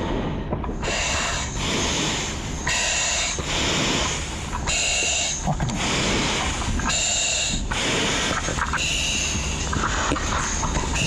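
Firefighter breathing through an SCBA face mask and regulator: a hissing breath roughly every two seconds, each pull of air with a bright, airy hiss.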